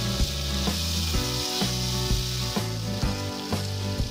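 Ground chili and shallot spice paste sizzling in hot oil in a metal wok, stirred with a metal spatula that scrapes now and then, being sautéed until fragrant. Background music with a steady bass line plays over it.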